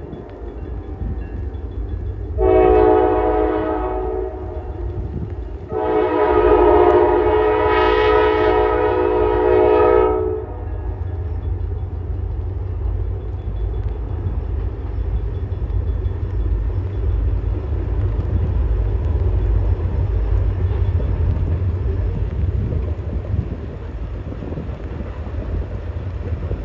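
Wheeling & Lake Erie freight train's diesel locomotive horn sounding a short blast about two seconds in, then a long blast of about four seconds, the closing short-long of a grade-crossing signal. Then the steady low rumble of the train rolling past.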